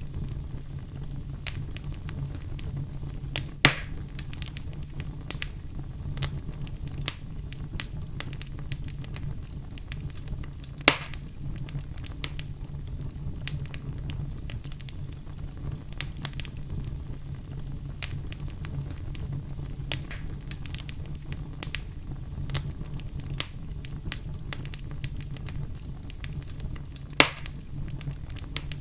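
Wood fire in a fireplace crackling: frequent small crackles over a low steady rumble. Three sharp louder pops come about four seconds in, about eleven seconds in, and near the end.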